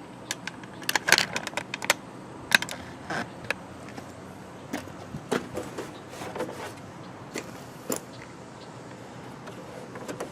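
Small metal hardware clinking and rattling as it is handled: a quick run of sharp clinks about a second in, then scattered single clinks.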